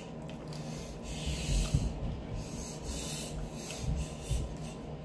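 Chewing crunchy tortilla-chip nachos: a run of gritty, rasping crunches with a few dull thumps in between, the loudest about one and a half seconds in.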